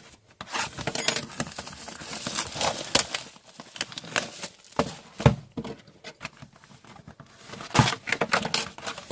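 A sealed cardboard hobby box of hockey cards being handled and unwrapped: plastic wrap crinkling and rustling, with cardboard knocks and clicks, a few of them sharp.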